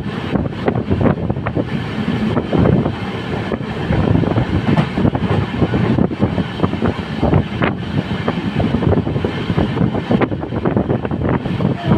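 Running noise of an LHB passenger coach at speed, heard from on board: a steady rumble of wheels on rail with frequent irregular knocks and rattles, and wind buffeting the microphone.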